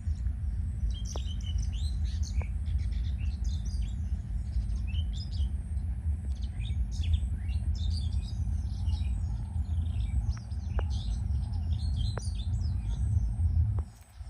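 Several small birds chirping and twittering in short, high, overlapping calls, over a steady low rumble.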